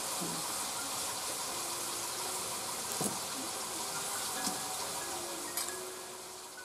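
Chicken curry frying in oil in a black iron kadai over a wood fire: a steady sizzling hiss, with a couple of small clicks.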